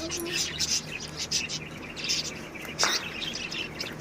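Many small birds chirping together in a dense, continuous chatter of short high chirps, with one louder, harsher call nearly three seconds in.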